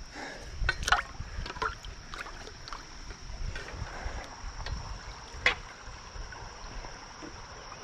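Water splashing and knocking as a caught smallmouth bass is handled in shallow creek water, over a low rumble, with a sharper splash about five and a half seconds in.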